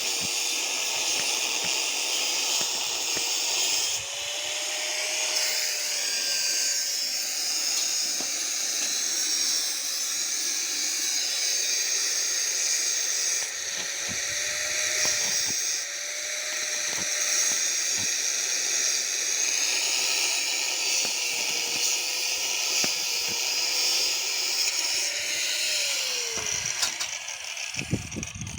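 Electric arc welding on steel pipe: a steady, sizzling crackle of the arc that shifts slightly every few seconds, over a faint wavering hum. Near the end it breaks into a few crackles and stops as the arc is broken.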